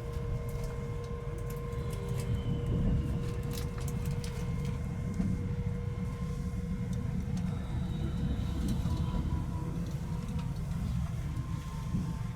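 Passenger train running at speed, heard from inside the carriage: a steady low rumble with a faint steady hum and scattered light clicks.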